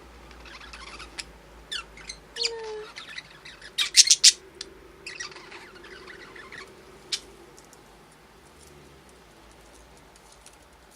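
A pair of pet budgerigars chirping and squawking in short, sharp calls, with a few falling whistled notes, loudest about four seconds in; the calls thin out in the last few seconds.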